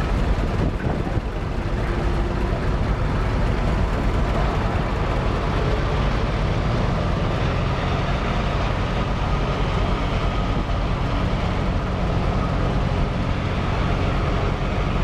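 Vintage tractor engine running steadily at low speed.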